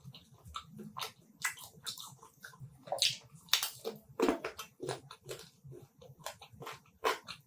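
Close-up eating sounds of a person biting and chewing a piece of chicken in spicy masala gravy: irregular mouth clicks and smacks, several a second.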